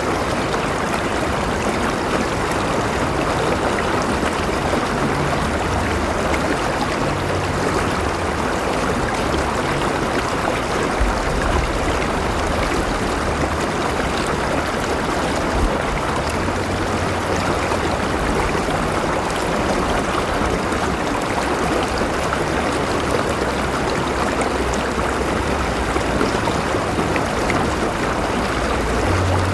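A river flowing steadily: continuous rushing and gurgling water with a low rumble underneath.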